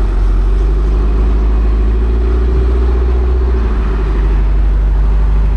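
Mitsubishi Lancer Evolution X's turbocharged 2.0-litre four-cylinder engine idling steadily, heard at the rear of the car by its exhaust.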